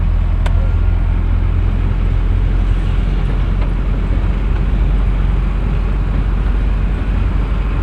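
Flatbed tow truck on the move: a steady low engine and road rumble, with a single sharp click about half a second in.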